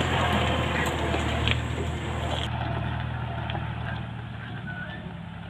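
Engine running steadily with a low, even hum and a few light knocks, gradually getting quieter.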